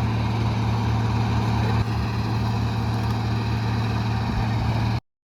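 A heavy engine idling steadily with a low, even rhythm; the sound cuts off abruptly near the end.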